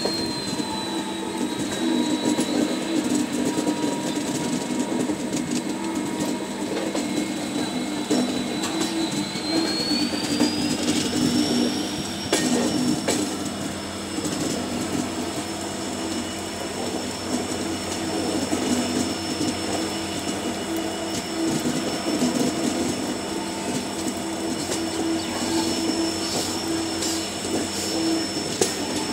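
Passenger train running through a curve, heard from an open coach door: the wheels squeal on the curving rails in a high steady tone that rises in pitch about ten seconds in, over the steady rumble and clatter of the wheels on the track.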